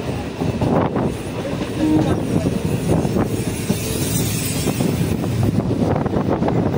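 Train running on the rails: a steady, dense rumble with a few sharp knocks scattered through it.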